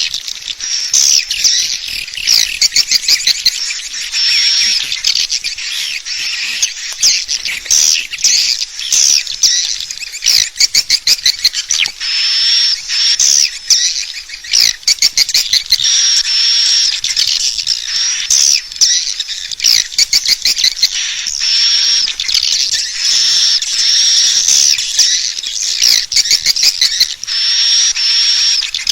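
Swiftlets calling: dense, continuous high twittering chirps mixed with rapid clicking trills. This is a swiftlet lure call (suara panggil), the sound played to draw swiftlets into a nesting house.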